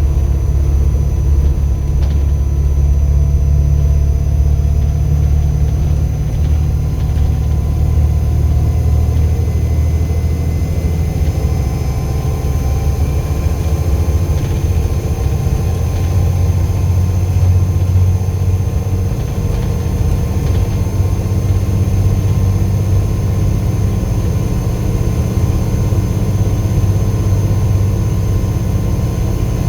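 Volvo B7 bus's six-cylinder diesel engine running steadily, with a faint turbo whistle rising and falling in pitch in the middle stretch.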